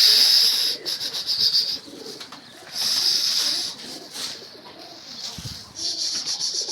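Domestic pigeons cooing at the loft, with four short bursts of a high rattling chatter over them, about a second each.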